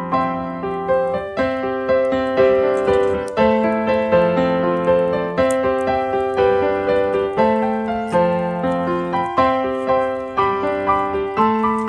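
Background music: piano, notes struck one after another in a steady, flowing pattern, each fading after it is struck.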